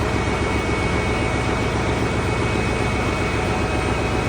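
Steady engine-room machinery noise on board a ship: a dense, even drone with faint steady tones running through it and no distinct knocks.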